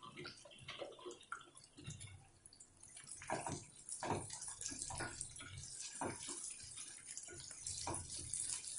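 Shallots, garlic and curry leaves sizzling in sesame oil in a kadai, stirred with a wooden spatula that scrapes and knocks against the pan about once a second from a few seconds in. Before that, a spoon stirring spice powders into tamarind water in a steel bowl clinks faintly.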